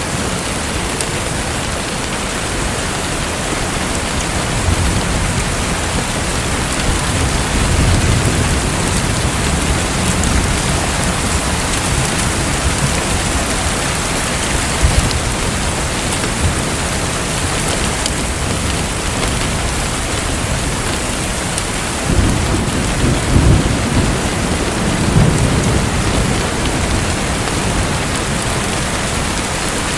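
Steady hiss of falling water, with low rumbling swells about eight seconds in and again after about twenty-two seconds.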